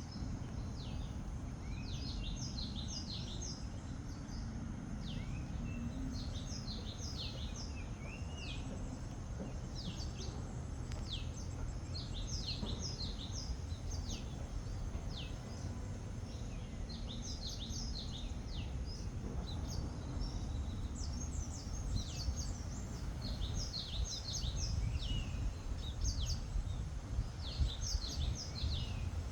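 Small birds chirping in repeated clusters of short, high, quickly falling notes, over a steady low background rumble.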